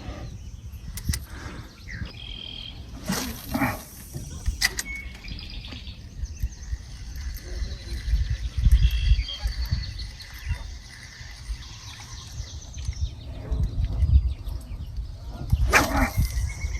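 Small birds chirping in short, high calls, with a few sharp clicks and some low rumbling bumps in between.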